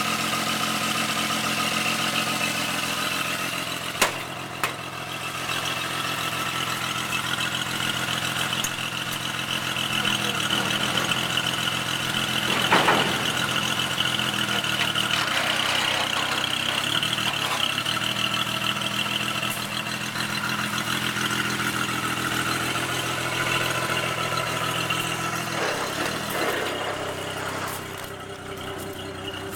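Auxiliary pony motor engine on a bucket truck running steadily, with a high steady whine over it. Two sharp clicks come about four seconds in and a sharp knock near the middle, and the engine quiets a little near the end.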